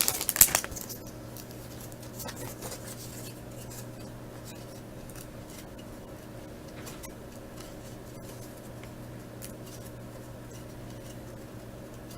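Trading cards from a freshly opened pack being handled and flipped through, with scattered faint soft ticks and rustles over a low steady hum. A short crinkle of the pack's wrapper opens it and fades within the first second.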